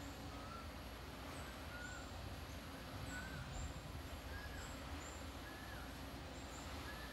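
A bird repeating a short call about six times, roughly once a second, each note bending slightly in pitch. A steady low background rumble runs underneath, with scattered faint high chirps.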